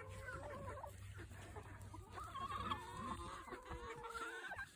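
Chickens clucking, with a string of short, rising and falling calls, over a low steady rumble.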